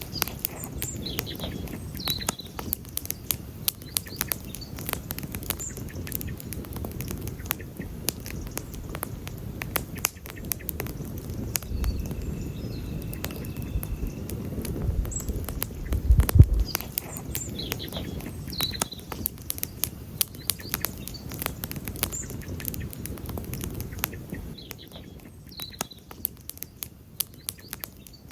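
Wood campfire crackling and popping: many sharp snaps over a steady low rush of burning, with a deeper rumble that swells just past the middle. A few short high chirps come through now and then.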